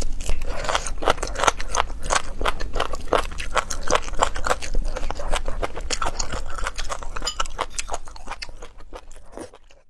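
Close-miked wet chewing and mouth clicks of someone eating soft beef bone marrow in chili sauce. The sounds thin out and fade away near the end.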